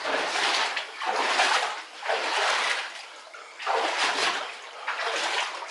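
Legs wading through knee-deep water, sloshing and splashing in a rhythm of about one surge a second as each stride pushes through.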